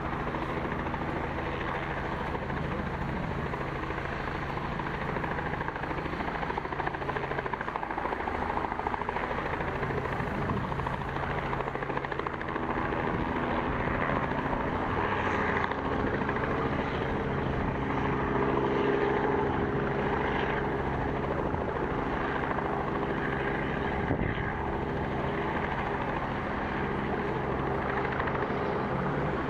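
Helicopter lifting off and departing, its engine and rotor running steadily with several steady tones, getting a little louder past the middle.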